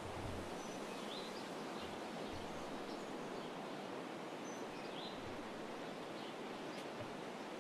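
Steady outdoor background hiss with a few faint, short bird chirps and high thin calls, and now and then a soft low bump.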